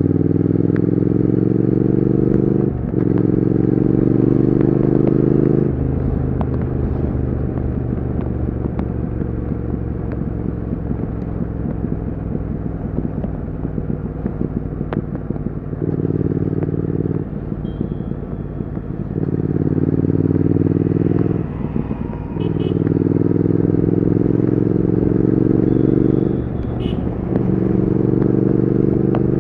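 Triumph Speed Twin 1200's parallel-twin engine and exhaust under hard acceleration, the pitch rising through each gear and dropping briefly at each upshift. For about ten seconds in the middle it runs steadier and quieter, then pulls up through the gears again several times.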